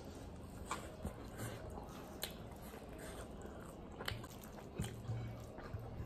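Close-up mouth sounds of someone chewing and biting pan-fried vegetable pakora and rice, with a few short crisp crunches spread through.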